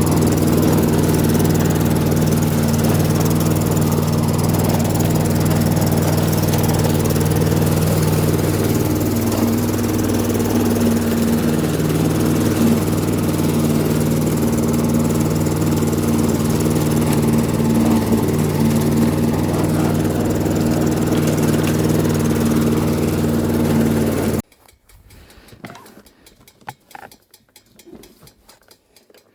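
Small petrol engine of mowing equipment running steadily, then cutting off abruptly near the end, after which there are only faint ticks and rustles.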